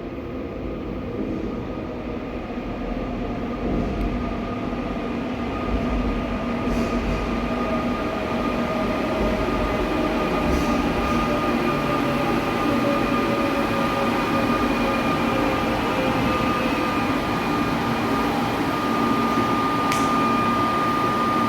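Seoul Line 4 electric subway train running into the station and braking: the train noise grows louder while its motor whine falls slowly in pitch, and a steady high tone holds near the end.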